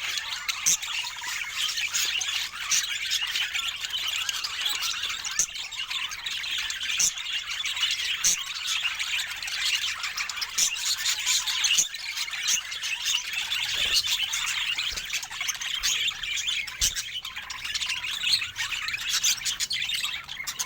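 A flock of budgerigars chattering without pause: a dense mix of warbling chirps with sharp squawks scattered through.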